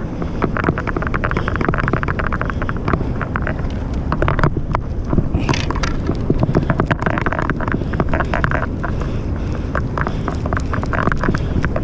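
Wind buffeting the microphone in a steady low rumble, with several bursts of rapid clicking and rattling mixed in.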